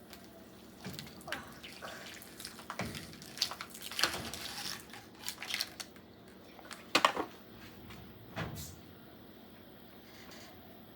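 Water squeezed out of a plastic container and dripping and splashing into a washing machine, with irregular clicks and knocks from handling; the sharpest knock comes about seven seconds in.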